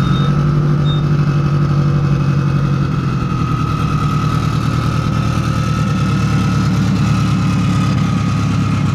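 Turbocharged drag car engine idling, a lumpy low running note with a steady high whine above it.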